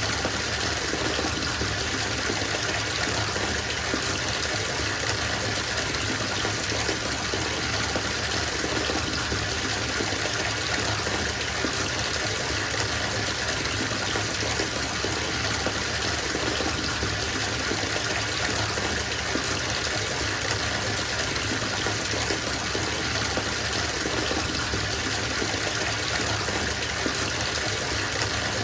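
Water gushing from a bathtub tap into a filling tub, a steady even rush of splashing water.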